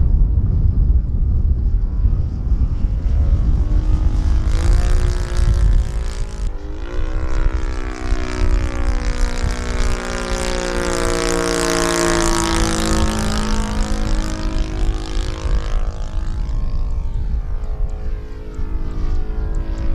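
Saito FG-50 four-stroke gasoline engine of a radio-controlled Extra 300 aerobatic model in flight. It revs up twice in the first third, then the plane makes a close pass: loudest near the middle, with the pitch dropping as it goes by. A low rumble of wind on the microphone runs underneath.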